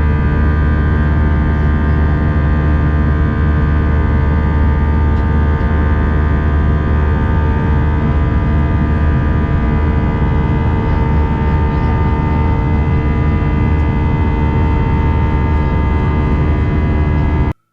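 Steady cabin drone of an Airbus A319 airliner: engine and airflow noise with a low rumble and several steady humming tones, unchanging until it cuts off abruptly near the end.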